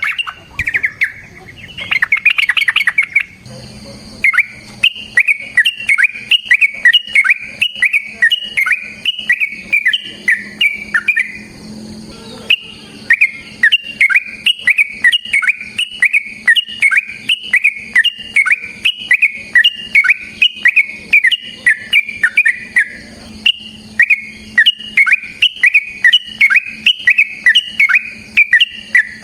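Yellow-vented bulbul (trucukan) singing long runs of rapid bubbly notes, several a second, each note falling in pitch, with two brief breaks. A faint steady high whine runs underneath.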